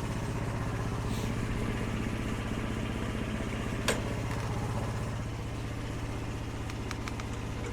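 Engine idling steadily with an even throb, with one sharp click about four seconds in.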